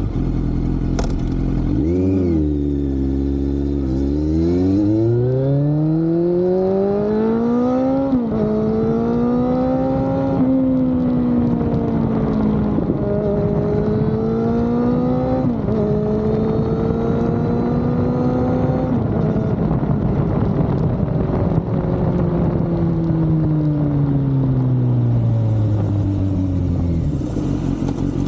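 Kawasaki Z900 inline-four through an SC-Project aftermarket exhaust, revved briefly, then accelerating up through the gears: the note climbs and drops sharply at each of three upshifts. It holds fairly steady for a few seconds, then falls away steadily as the bike slows near the end.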